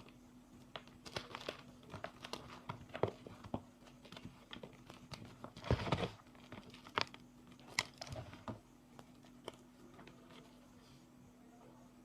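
Hard reformed gym chalk crunching and crumbling as it is crushed: scattered sharp crackles, one longer, louder crunch about halfway through, then only faint crumbling in the last few seconds.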